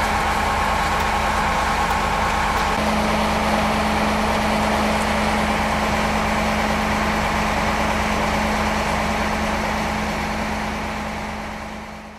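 Fire truck engine running steadily, its tone shifting slightly about three seconds in, then fading out at the end.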